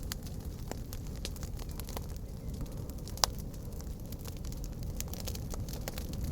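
Wood campfire crackling, with scattered sharp pops over a steady low rumble; one loud pop about three seconds in.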